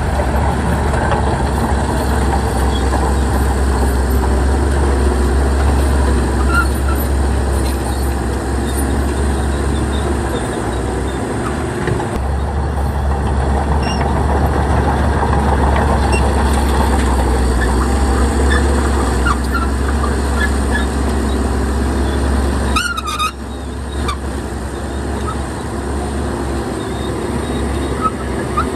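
Heavy diesel engine of earthmoving machinery, a bulldozer or dump truck, running steadily with a deep low rumble. A brief sharp hiss-and-squeal sound breaks in near the end.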